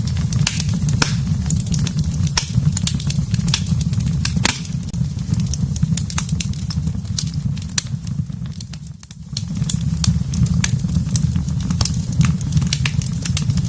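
Wood fire in a fireplace crackling, with frequent sharp pops over a steady low rumble. The sound briefly dips about nine seconds in.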